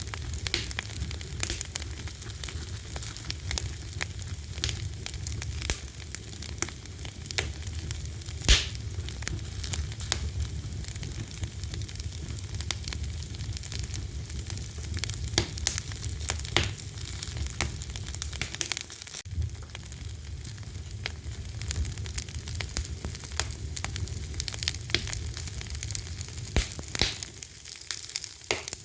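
Fire crackling with frequent sharp pops and snaps, one louder pop about eight seconds in, over a steady low rumble of the flames.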